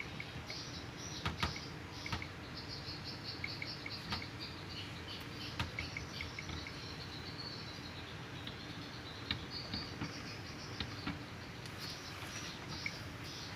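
Small birds twittering in quick runs of high chirps that start and stop, with a few light clicks.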